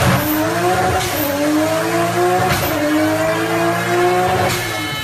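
Mk4 Toyota Supra's engine at full throttle on a chassis dyno, pulling up through the gears. The pitch climbs steadily in each gear and falls at upshifts about one, two and a half, and four and a half seconds in, each shift marked by a short sharp noise.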